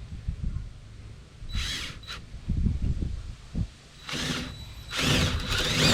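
Electric drill running with a large bit boring a hole into a wooden board: a couple of short bursts, then running more steadily from about five seconds in, with low knocks between bursts.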